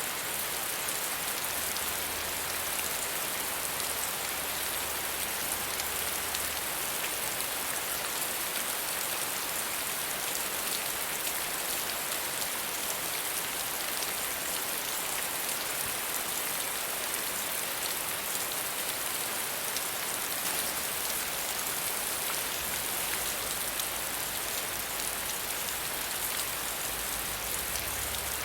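Steady soft rain falling, an even hiss of many small drops.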